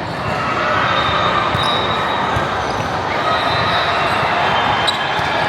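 Indoor volleyball gym: volleyballs being hit and bouncing on the hard court floor, with squeaks and indistinct voices, all echoing in a large hall.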